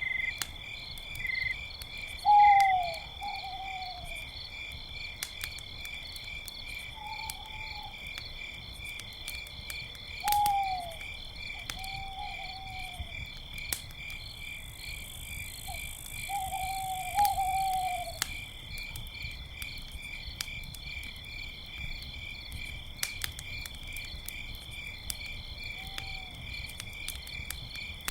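Owls hooting in short falling calls, several times and sometimes in quick pairs, over the steady pulsing chirr of crickets, with faint crackles of a campfire.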